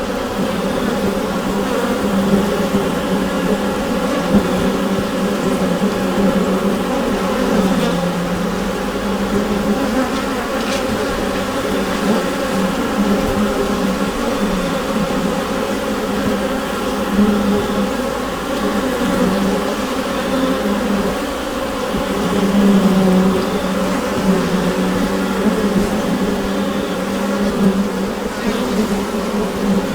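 Dense, continuous buzzing of a honeybee colony heard from inside the hive: many bees at once making a steady low hum.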